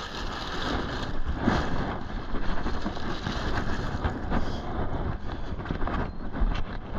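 Wind buffeting the microphone over a steady rushing noise, with a few faint knocks.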